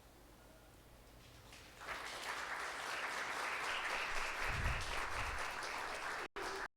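Audience applauding, starting about two seconds in after a near-silent pause and cut off abruptly near the end.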